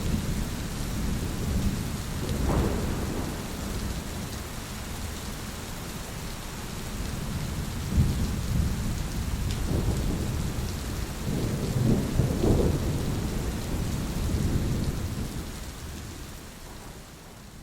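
Thunderstorm: steady rain with thunder rolling and rumbling again and again, the peals strongest a few seconds in and through the middle, then fading away near the end.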